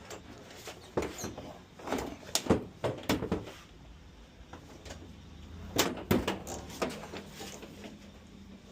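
Irregular knocks and clatter of workshop parts being handled, in small groups about a second in, between two and three and a half seconds in, and around six seconds in.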